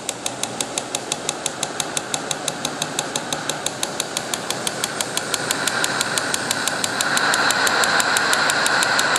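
Homemade alpha-type Stirling engine with a Ross yoke mechanism running, a regular clicking knock about six or seven times a second from its moving linkage. A whirring hiss under the clicks grows louder from about halfway through.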